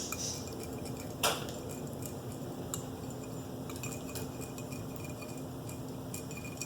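Small coffee spoon clinking and tapping against a dish while hand-feeding formula is mixed, with one sharper clink about a second in and lighter taps after it.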